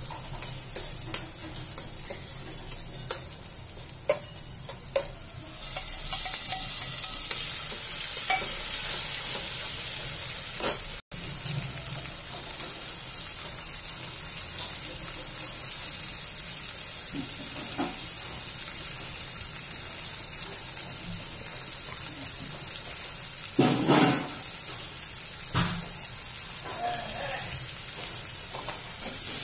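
Chopped vegetables frying in oil in a stainless steel kadhai, a steel spoon scraping and clicking against the pan as they are stirred. About five seconds in the sizzle turns much louder and hissier and stays that way, with a few loud knocks of the spoon on the pan near the end.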